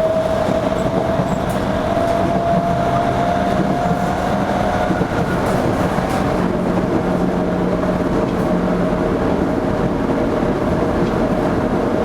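A Toei 5300 series train heard from inside a car while running: a steady rumble of wheels on rail. Above it is a thin whine that rises gently over the first five seconds, then falls back and holds steady.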